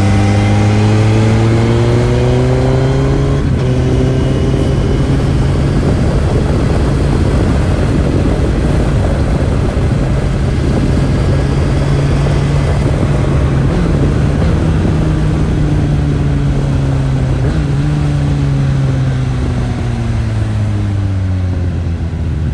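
Suzuki GSX-S1000's inline-four engine through its stock exhaust, revs rising in the first few seconds, then holding steady at speed with wind rush, and falling over the last few seconds as the bike slows.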